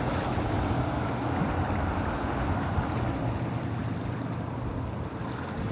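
Older two-stroke outboard motors on a passing boat running with a steady drone, mixed with wind and wave noise. The sound eases slightly near the end.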